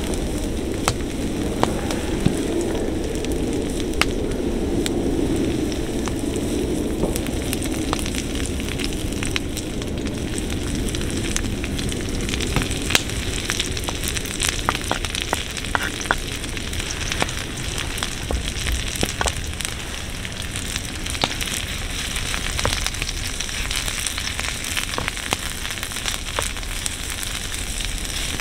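Fire crackling: irregular sharp pops and snaps scattered over a steady hiss, the lower rush of it heavier in the first few seconds.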